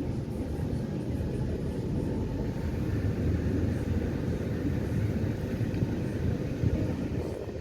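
Passenger catamaran ferry underway: a steady low rumble of its engines and hull.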